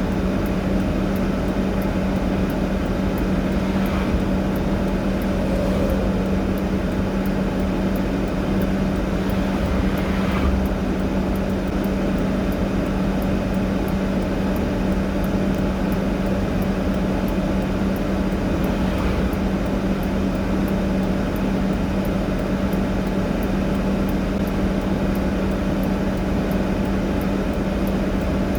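A vehicle engine running steadily at idle: a constant drone with an unchanging hum.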